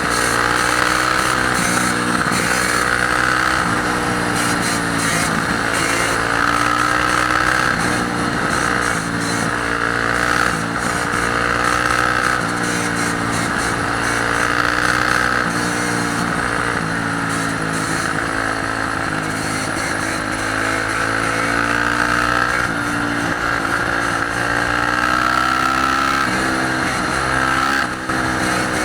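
Dirt bike engines running and revving, their pitch rising and falling again and again, with more than one bike heard at once.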